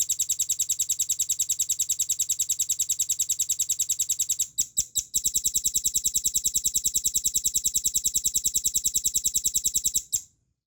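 Velvet-fronted nuthatch singing a long, fast trill of sharp high notes, about ten a second. The trill breaks briefly about halfway through, resumes, and stops shortly before the end.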